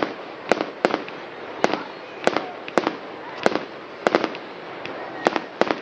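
Fireworks going off in a display: a quick, irregular run of sharp bangs, about a dozen in under six seconds, some coming in close pairs.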